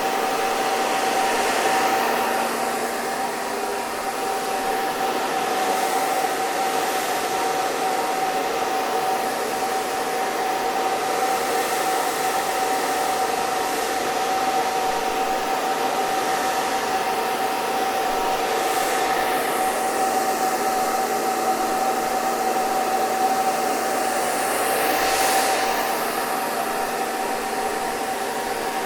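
Hair dryer running continuously: a steady rush of blown air over a constant motor whine, with a brief swell in the airflow near the end.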